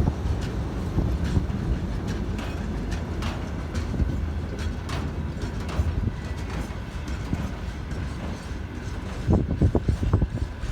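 Freight train rolling past, a steady low rumble of wheels on rail with irregular clicks and knocks as wheels cross rail joints, and a louder run of knocks near the end.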